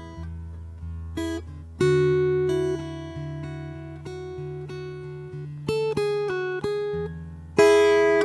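Solo acoustic guitar playing a slow, soft improvisation of plucked notes left to ring. A louder chord is struck about two seconds in and another near the end, with a quick run of single notes in between.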